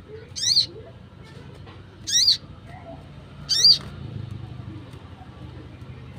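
A wild sunbird calling: three short, sharp, high zigzag notes, spaced about a second and a half apart.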